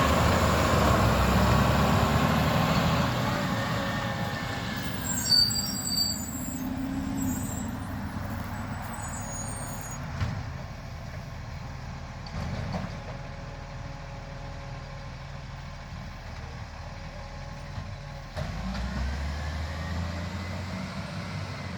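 Garbage truck's diesel engine running close by, then fading over the first few seconds as it moves off. Brief high squeals and a couple of sharp clicks come about five to seven seconds in. The engine sound grows louder again about eighteen seconds in.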